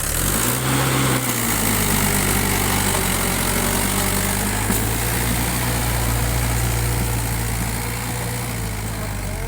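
Tractor diesel engine revved up suddenly and held at high revs, its pitch climbing over the first second and then running steadily, easing slightly near the end.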